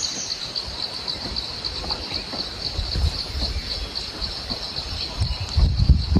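Insects, crickets or similar, chirping in a steady high-pitched pulse about five times a second, over a low uneven rumble that swells near the end.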